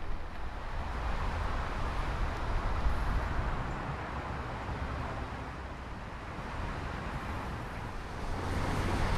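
Wind rumbling on the microphone over a steady rushing hiss while cycling in the rain. The noise grows louder near the end.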